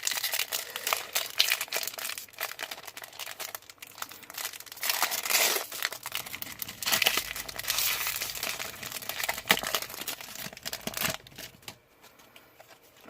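Foil Pokémon booster pack wrapper being crinkled and torn open, a dense run of crackling that dies down near the end.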